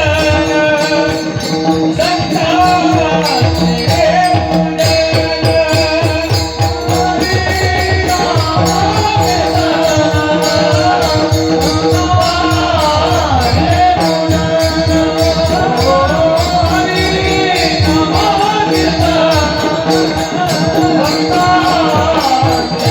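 Marathi devotional bhajan music: a bending melody over a steady drone, driven by a steady rhythm of mridang drum strokes.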